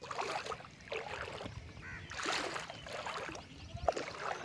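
Standing rainwater sloshing and splashing, in surges that come round about once a second.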